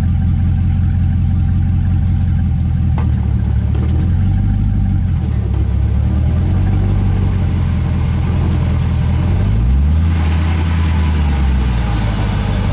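A truck running with a steady low engine hum. About nine and a half seconds in, the engine pitch rises and a rushing noise joins it.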